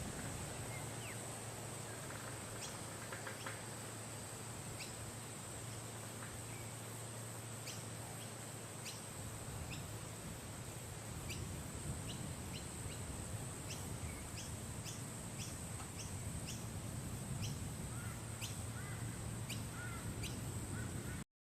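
Bar-winged prinias giving short, sharp chirps, sparse at first and coming about once or twice a second in the second half. Behind them runs a steady high-pitched hiss and a low hum.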